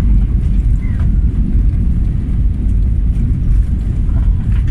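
Steady low rumble inside the cabin of an Airbus A320 during landing.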